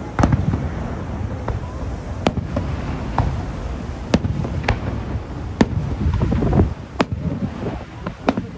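Aerial fireworks bursting, a string of sharp bangs about once a second over a steady low rumble.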